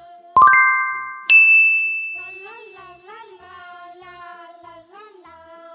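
Two bright chime dings, about a second apart, each ringing out and slowly fading, over soft background music with a gentle melody.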